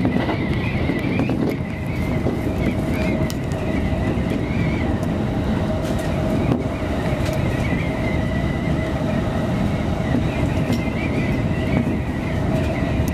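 Electric commuter train running at speed, heard from inside the front car: a steady rumble of wheels and running gear with a steady motor whine and a few faint clicks.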